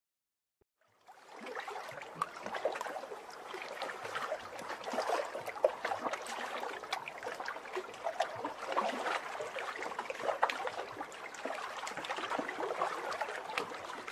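River water splashing and trickling, starting about a second in.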